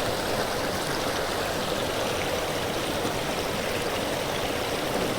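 Creek water rushing steadily over rocks, a constant even rush of flowing water.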